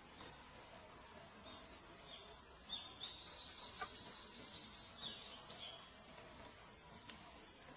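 A small bird singing one short song phrase of high, rapid repeated notes, lasting about three seconds and starting about two seconds in. A single faint click follows near the end.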